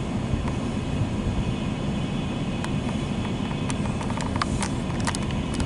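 Loaded coal train rolling past: a steady low rumble of the cars on the rails, with sharp clicks and short squeaks from the wheels starting about halfway in.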